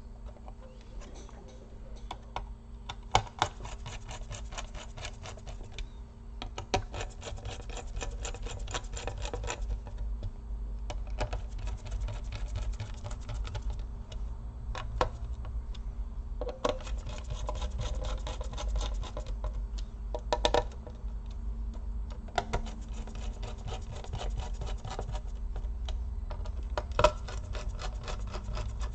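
Small screwdriver driving the screws that hold a laptop's CPU cooler (heatsink and fan) to the motherboard. Several stretches of fine, scratchy ticking, each a couple of seconds long, with a few sharp clicks between them as parts are handled.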